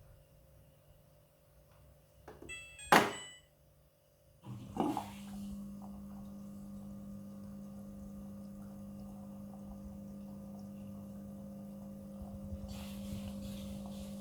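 Midea front-loading washing machine starting a wash: a short electronic beep and a sharp click about three seconds in, a thunk a second or so later, then a steady machine hum. A hiss joins the hum near the end.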